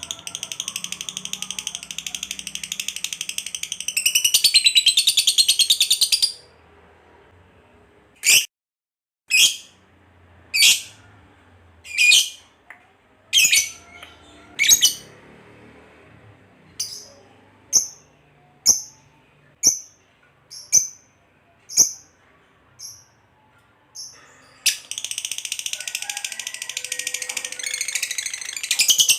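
Lovebird giving its long rapid rattling chatter (ngekek) for about six seconds, then a string of single sharp high chirps about one a second, then breaking into another long rattling chatter near the end.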